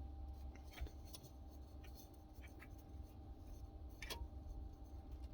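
Faint scattered clicks and taps of hand tools working on the fuel filter fittings, the sharpest about four seconds in, over a low steady rumble.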